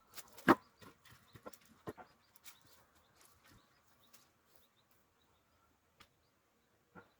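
Split firewood knocking and clattering as it is handled and stacked: one sharp knock about half a second in, a run of smaller knocks over the next few seconds, then two single knocks near the end.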